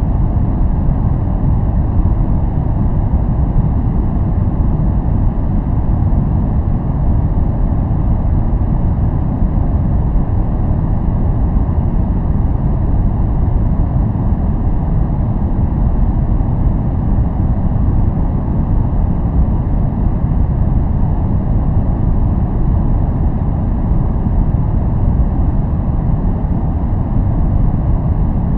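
Steady, unchanging noise track billed as white noise. It is deep and rumbling, with most of its weight in the low end and only a faint hiss above.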